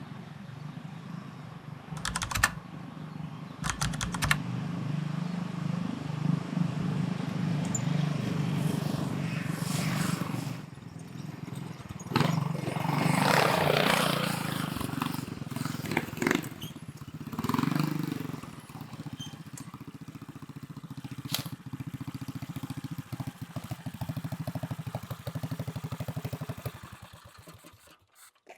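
Go-kart engine running at speed, its note swelling louder and fading several times as the kart passes, with a few sharp knocks along the way; it dies away near the end.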